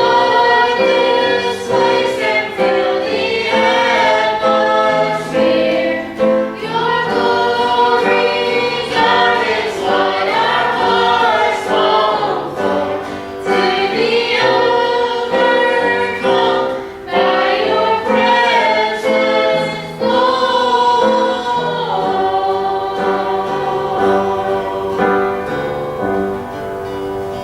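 Gospel singers in harmony performing a hymn-style song, ending on a long held chord that fades near the end.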